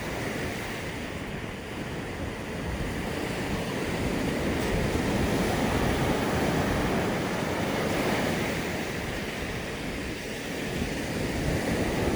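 Sea surf washing onto a beach, a steady rush that swells about four seconds in and eases again before rising near the end.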